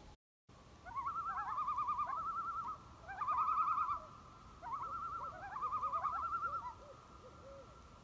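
A bird calling: a fast, quavering call that warbles up and down, repeated in about four bouts of a second or so, with a few short lower notes near the end.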